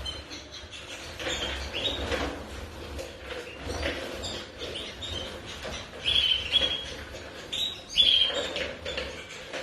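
Domestic canaries giving short, high chirps, clearest about six and eight seconds in, over a busy patter of small splashes and flutters as they bathe in water.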